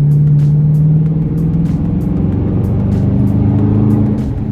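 Dodge Challenger R/T 5.7-litre HEMI V8 exhaust with the mid muffler deleted, getting louder and higher in pitch as the car accelerates at the start, holding, then easing off about four seconds in. It echoes inside a tunnel, with background music underneath.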